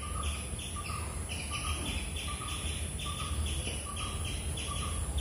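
A bird chirping in a steady run of short, evenly spaced calls, about three a second, over a constant faint high-pitched whine.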